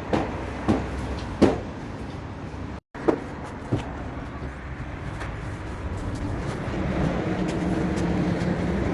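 A few sharp knocks and clacks, then a steady mechanical hum that grows somewhat louder over the last few seconds.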